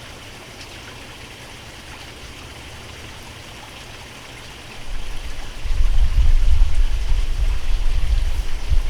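Steady trickling hiss of running water. About five seconds in, a loud, uneven low rumble sets in on top of it.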